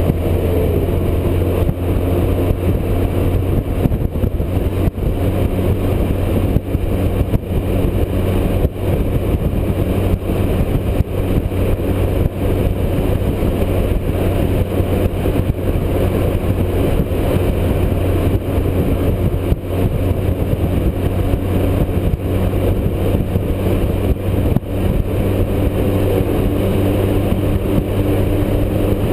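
Motorcycle engine running steadily at highway cruising speed, a constant low hum, mixed with a steady rushing noise of wind and road.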